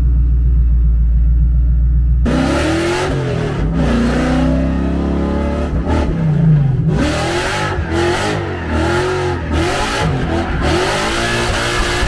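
Tuned drift car's engine droning steadily, then about two seconds in it takes off hard, revving up and down over and over as the car is driven in a drift.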